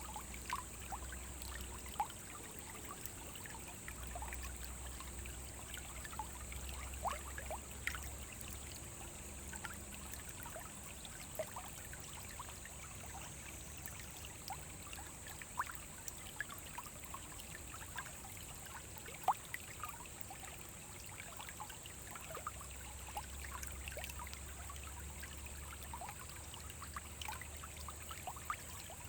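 Small forest brook running over stones, a steady wash of water with frequent small trickling plinks and drips.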